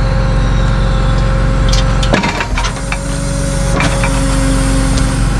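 Tow truck's engine running steadily at idle, with a few short clicks and knocks about two seconds in and again near the four-second mark.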